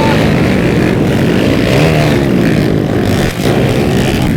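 Several underbone motorcycles racing together, their small single-cylinder engines revving hard, the pitch rising and falling about halfway through as the riders work the throttle.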